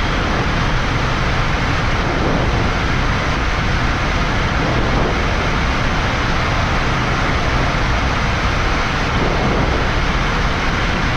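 Steady rushing noise on a Boeing 787-9 flight deck in the climb after takeoff: airflow and ventilation noise filling the cockpit, even and unbroken.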